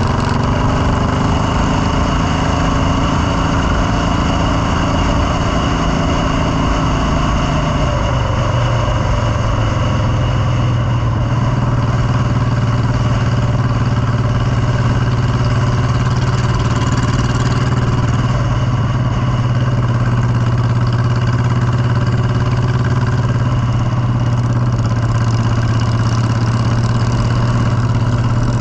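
Motorcycle engine running steadily, its pitch dropping slightly about eight seconds in and then holding.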